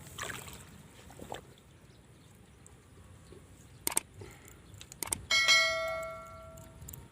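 A few light clicks and knocks, then a single bright metallic ring, like a small bell struck once, dying away over about a second and a half.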